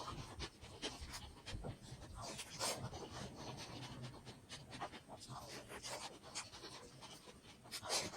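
Close-miked chewing and wet lip-smacking of a person eating momos, with irregular mouth clicks and smacks.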